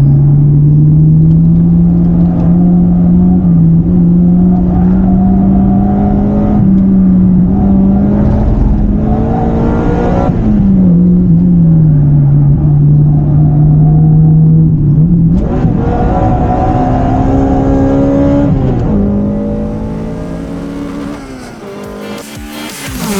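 Honda Integra Type-R DC2's B18C four-cylinder VTEC engine heard from inside the car on a track, pulling hard up through the revs in long climbs, dropping back about halfway through, then revving higher still before lifting off and fading. Music comes in at the very end.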